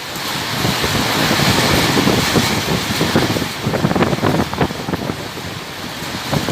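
Storm wind blowing hard in gusts with rain, the gusts buffeting the microphone in rapid uneven flutters; it swells about a second and a half in and eases near the end.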